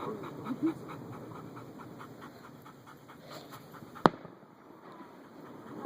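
A dog panting fast and evenly, then a single sharp firework bang about four seconds in.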